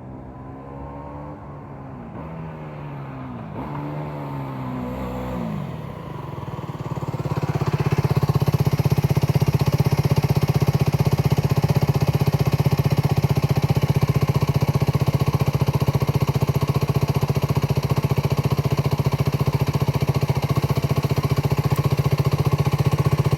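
Aprilia RS4 125's single-cylinder four-stroke engine through its stock muffler, revving up and down for several seconds. About seven seconds in it gets much louder and settles into a steady, even note.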